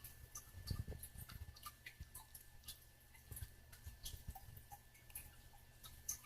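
Monk parakeet nibbling and mouthing a person's finger: faint, irregular beak clicks and ticks, with soft low thumps from the bird's movement.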